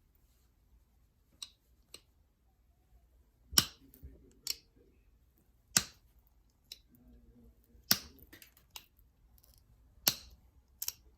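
Flintknapping a novaculite point: four sharp clicks about two seconds apart as flakes come off the stone, with fainter ticks and scrapes between.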